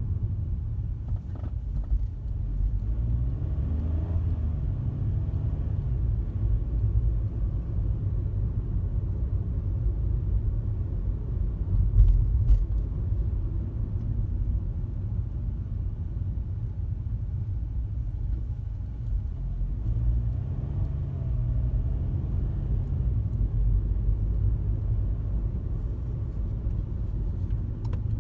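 A car driving at highway speed: a steady low rumble of road and engine, with faint rises and falls in engine note and a single brief thump about twelve seconds in.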